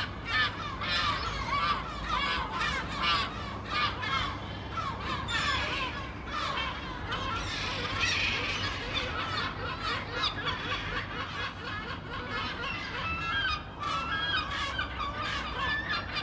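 A flock of seagulls calling, many short cries overlapping one another continuously.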